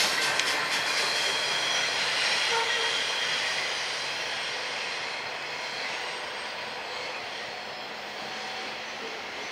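Loaded coal hopper cars of a freight train rolling on the rails, the wheel and car noise fading steadily as the end of the train moves away.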